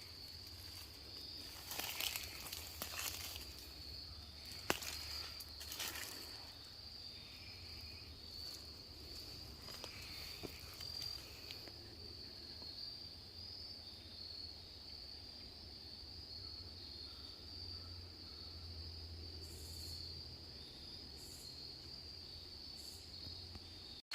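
A steady high-pitched insect drone, unbroken throughout. A few rustling steps sound in the first six seconds.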